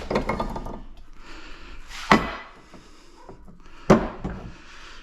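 Scrap metal parts from a stripped-down air filter clattering as they are handled, with two sharp knocks about two and four seconds in.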